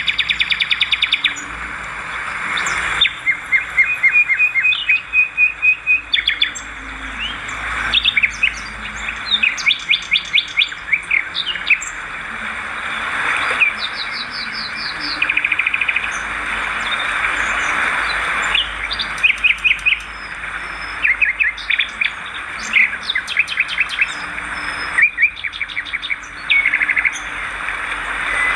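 Swiftlets chattering: rapid buzzy trills made of quick clicks, one after another every second or so, over a steady hiss.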